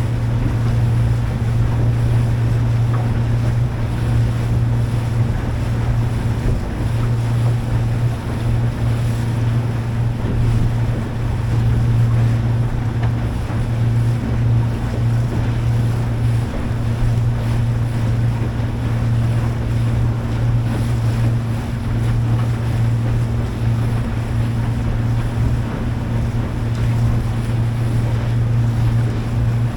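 Boat engine running at a steady speed, a constant low drone that does not change, with wind buffeting the microphone and water noise over it.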